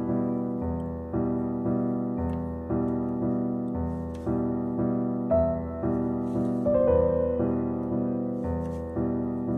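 Background piano music: gentle repeated chords struck about twice a second, each note ringing and fading before the next.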